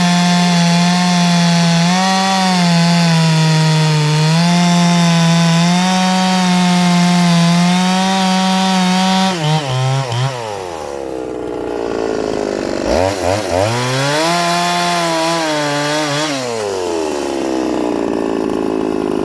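Ported two-stroke chainsaw cutting wood under load, holding a steady high pitch for about nine seconds. The engine then drops off as the cut ends, is revved up again for about three seconds, and drops back down near the end.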